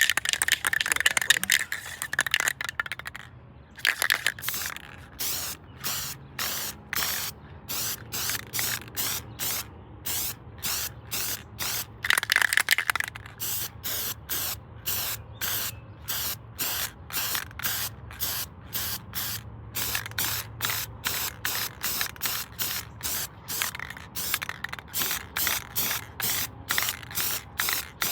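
Aerosol spray paint can sprayed in short, rapid bursts, about two or three a second, with a couple of longer sprays at the start and about twelve seconds in.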